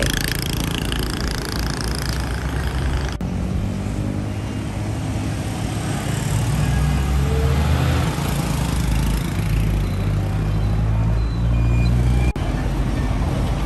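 City bus engine running in traffic, a steady low rumble. The sound changes abruptly about 3 seconds and 12 seconds in, where the footage is cut.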